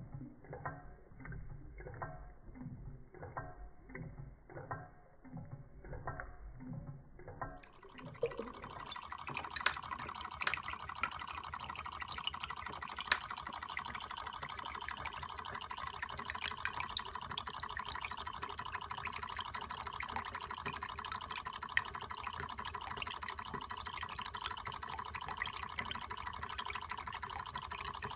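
Model Stirling engine running and driving a small water pump: muffled rhythmic strokes about one and a half a second, then after a cut a steady fast mechanical rattle with water splashing and dripping.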